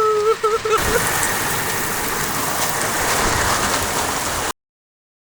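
Steady rain falling, an even hiss that cuts off suddenly to dead silence about four and a half seconds in.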